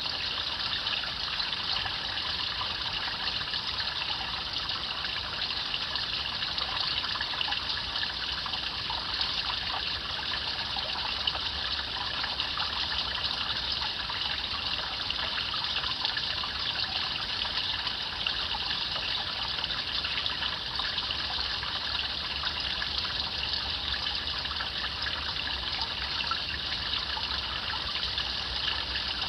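A shallow stream babbling and trickling steadily over stones.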